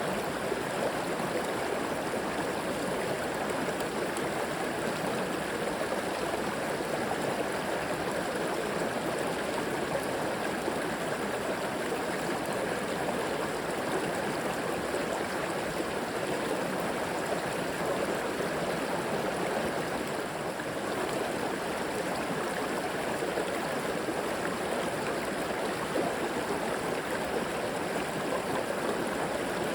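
Flowing river water running steadily over rocks, a continuous rushing with gurgling.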